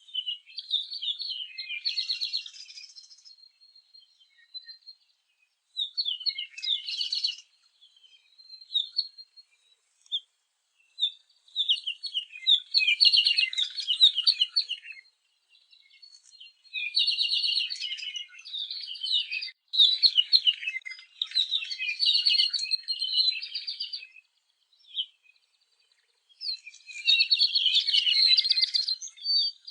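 Songbirds singing in rapid, high chirping phrases a few seconds long, with short pauses between them.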